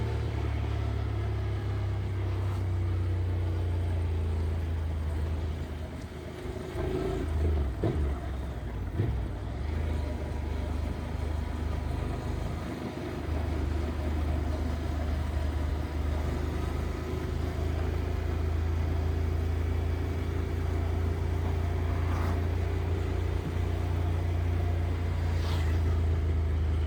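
Motorcycle engine running steadily at a low, even note, heard from the rider's seat. It eases off and wavers for several seconds about a quarter of the way through, then settles back to a steady run.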